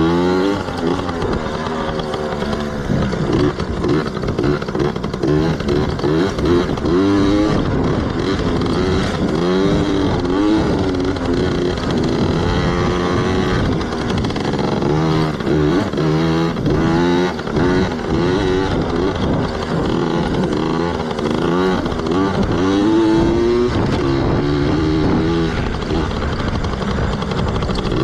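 Yamaha PW80 two-stroke single-cylinder dirt bike engine being ridden, its pitch rising and falling again and again as the throttle opens and closes.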